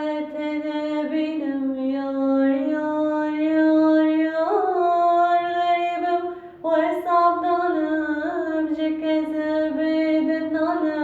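A woman singing solo without accompaniment: long held notes with slides and ornaments, a sung lament. There is a short breath about six and a half seconds in.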